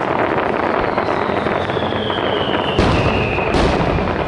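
Fireworks: dense crackling throughout, with a whistle falling slowly in pitch, then two loud bangs a little under a second apart about three seconds in.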